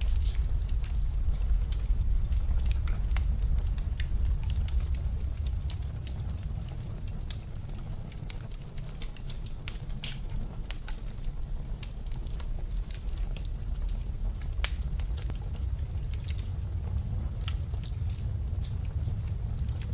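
Wood fire crackling in a fireplace, with irregular sharp pops and snaps over a low steady rumble of blizzard wind that eases a little in the middle.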